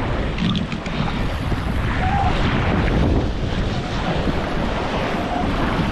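Wind buffeting the microphone over the rush of water past the hull of a 29er dinghy sailing fast in strong wind.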